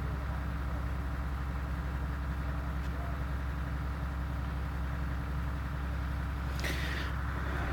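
Steady electrical hum and hiss of an old recording during a pause in the recitation, with one short noisy burst near the end.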